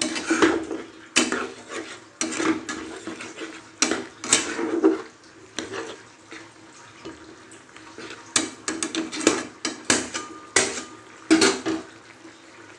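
A metal spoon or ladle stirring soup in a pot, knocking and scraping against the sides with irregular clinks and a little liquid swishing, as cornflour slurry is mixed in so it doesn't form lumps.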